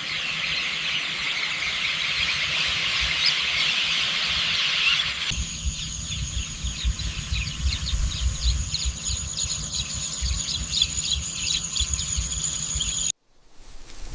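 Outdoor countryside ambience of many birds chirping densely. About five seconds in it changes abruptly to scattered bird chirps over a steady high-pitched whine and a low rumble. The sound cuts off suddenly near the end.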